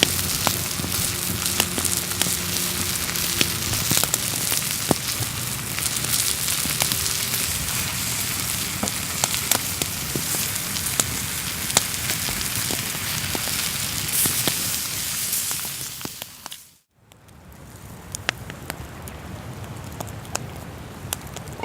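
Wood fire crackling with many sharp pops over a steady hiss, the sound of ribs grilling over an open fire. It fades out about sixteen seconds in and comes back quieter a second later.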